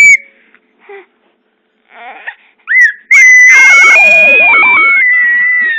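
A baby's high-pitched, kettle-like scream: a squeal cuts off at the start, a short squeak follows, then about three seconds in comes one long, loud, held squeal.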